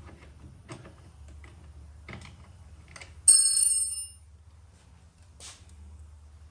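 Light clicks and knocks of metal hardware being handled, then about three seconds in a sharp metal-on-metal clink that rings briefly with a high, bell-like tone.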